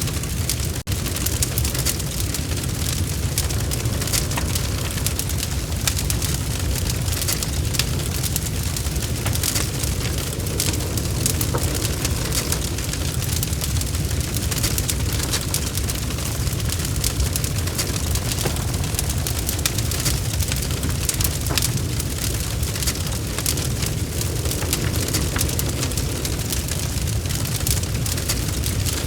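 Log fire crackling, with irregular small pops and snaps over a steady low rumble of the flames. The sound drops out for an instant about a second in.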